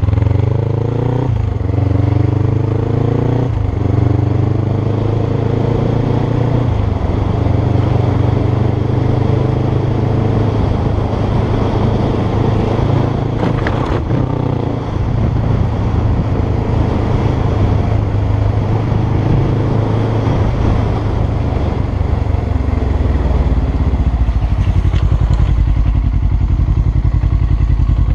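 Motorcycle engine accelerating through the gears: pitch rises and drops back at each shift, about three times in the first several seconds, then runs steadily at speed.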